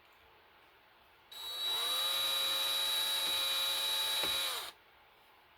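Electric drill boring out a broken bolt in an engine block: it spins up about a second in, runs with a steady whine for about three seconds, then stops.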